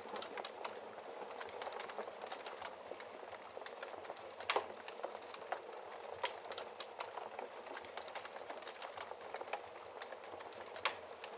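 Wood fire crackling in a fireplace: a steady hiss with frequent small pops and a few louder cracks, the loudest about four and a half seconds in and again near the end.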